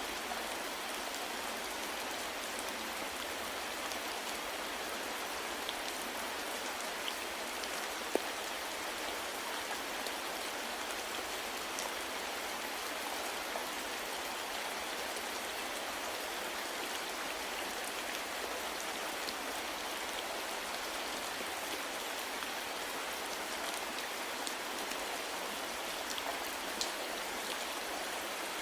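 Steady soft rain falling, an even hiss with scattered drop ticks, one sharper tick about eight seconds in.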